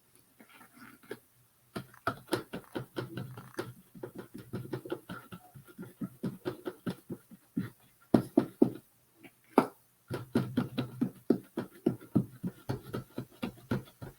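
A run of quick, irregular taps and clicks over a faint steady low hum.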